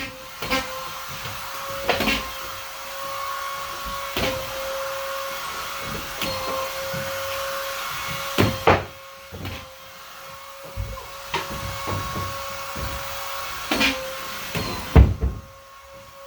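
Vacuum cleaner running with a steady whine and hiss, broken by repeated sharp knocks and clunks. The hiss drops back briefly about nine seconds in and again near the end.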